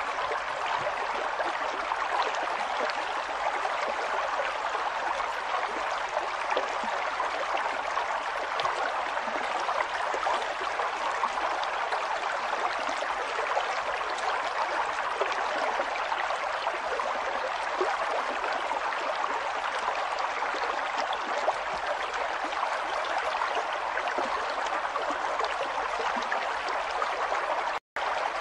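River water flowing: a steady rush of running water, broken by a split-second dropout near the end.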